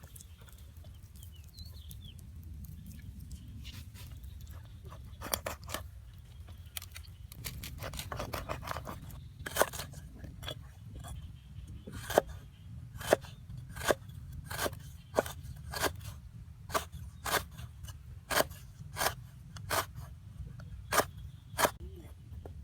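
Sharp cutting strokes of a blade through food. They are sparse and irregular at first, then come steadily about one and a half times a second from about halfway in, over a low steady rumble.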